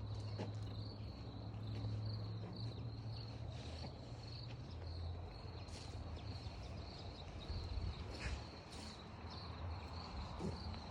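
Insects trilling outdoors: a steady, pulsing high-pitched trill. A low hum sits under it for about the first half, and a few faint knocks come through.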